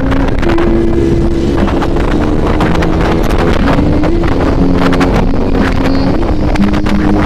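Heavy wind buffeting the microphone while riding, a constant rough rumble with irregular gusty knocks. Under it runs a melody of held notes, background music.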